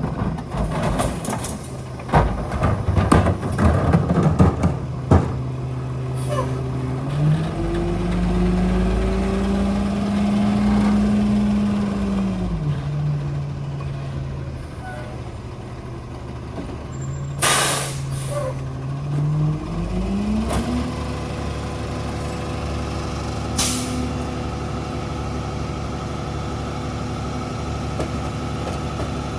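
Ford 750 garbage truck with a Heil rear-loader body: a clatter of knocks in the first few seconds, then the engine revs up, holds and drops back, the typical sound of the packer's hydraulics running a compaction cycle. About 17 s in comes a loud hiss of the air brakes, a shorter one follows some six seconds later, and the engine settles at a higher steady idle.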